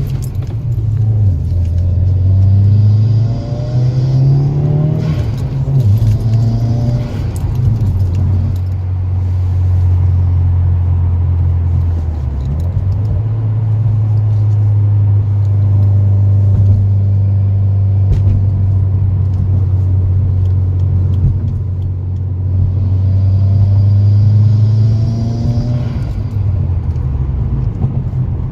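2019 Subaru WRX's turbocharged 2.0-litre flat-four running through an Invidia R400 cat-back exhaust with the intermediate resonator deleted: a steady low drone. The revs climb in several steps over the first several seconds, dip briefly near the middle, then hold steady before climbing again near the end.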